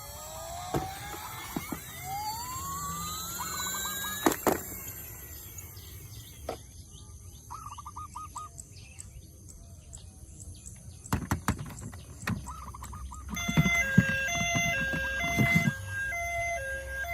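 Electronic siren sound effects from toy emergency vehicles: rising whoops and short warbling trills, with clicks and knocks of plastic toys being handled. About three-quarters of the way through, a stepping two-tone electronic siren starts and keeps going.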